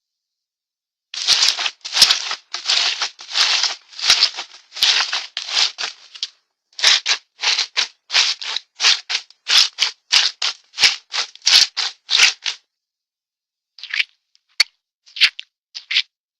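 A cartoon sound effect of short, dry rattling strokes, about two or three a second, running for about eleven seconds after a second's pause and then thinning to a few scattered strokes near the end.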